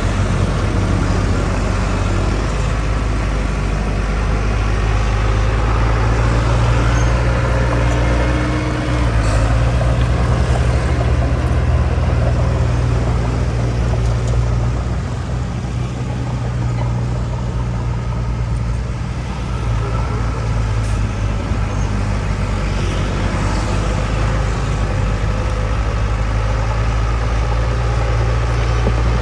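Heavy earthmoving machinery's diesel engine running steadily under work, a deep, continuous drone that eases off somewhat about halfway through and then picks up again.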